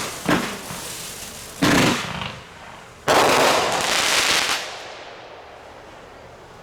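Consumer fireworks going off: a couple of sharp bangs, a heavier boom about a second and a half in, then a dense rush of noise lasting about a second and a half from about three seconds in, after which it dies away.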